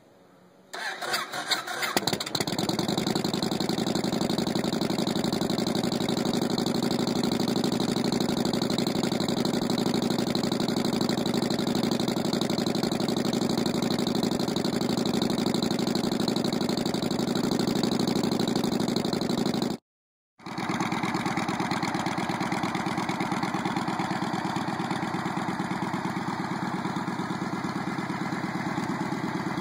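A 2006 Yamaha Road Star Warrior's V-twin engine turning over on the electric starter, catching about two seconds in and settling into a steady idle through its chrome exhaust. The sound drops out completely for about half a second near the middle, then the steady idle picks up again.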